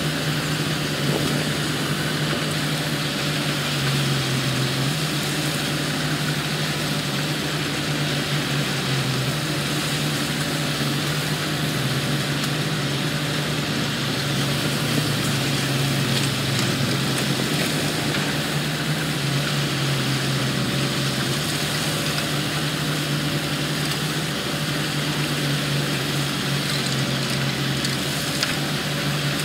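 Diesel engines of heavy construction machinery running steadily with a constant low drone.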